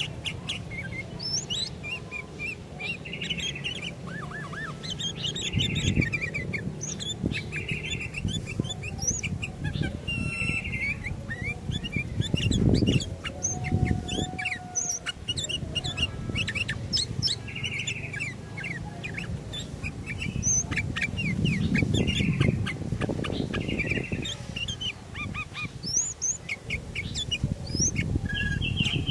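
Sooty-headed bulbuls (kutilang) calling over and over, short sharp chirps and chattering phrases, over a low rumbling background noise that swells twice.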